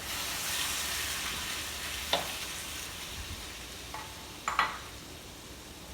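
Chicken pieces sizzling as they fry in a pan: a steady hiss that is loudest at first and slowly eases off, with two short clicks about two seconds and four and a half seconds in.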